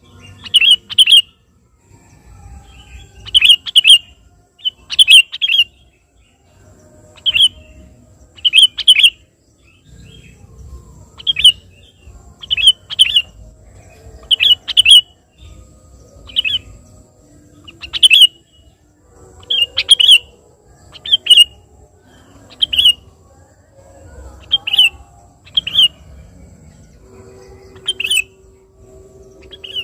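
Sooty-headed bulbul (kutilang) calling over and over: short, bright phrases of one to three quick notes, repeated every second or two.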